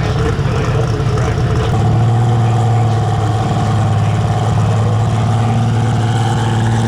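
Light Super Stock pulling tractor's multi-turbocharged diesel engine running hard at a steady pitch, the drone settling into a cleaner, even tone about two seconds in.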